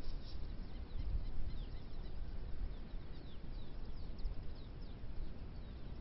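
Birds calling outdoors: many short, high, falling chirps scattered throughout, over a low rumble of wind and handling-type noise picked up by a trail camera's microphone.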